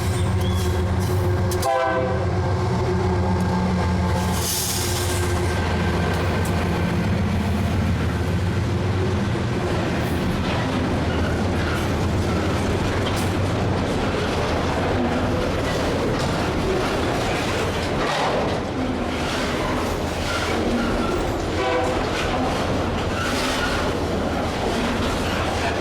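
Diesel freight locomotives running past with a steady low engine hum. The horn sounds briefly about two seconds in and again later, over the long rolling clatter of the wagons' wheels on the rails.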